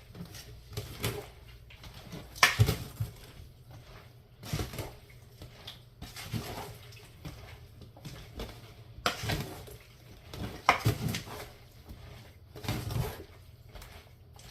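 A utensil mixing a dressed chicken salad in a bowl: irregular scrapes and knocks against the bowl, loudest about two and a half seconds in and twice near ten seconds.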